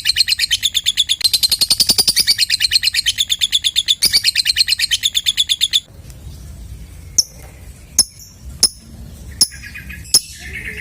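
Lovebird ngekek: a long, very fast chattering trill of rapidly repeated high notes, broken briefly twice, that stops about six seconds in. Several sharp single chirps follow it.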